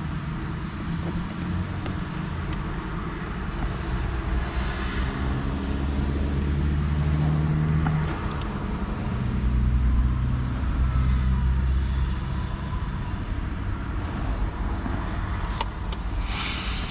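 A motor vehicle's engine running nearby, its low note growing louder through the middle and shifting in pitch before easing off again, over a steady background of traffic noise.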